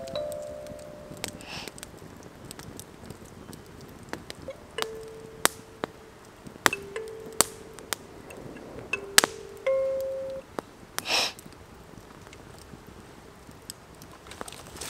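Kalimba tines plucked slowly, a few notes at a time with pauses between, each ringing on briefly after a sharp click at the pluck. A brief rustle comes about eleven seconds in.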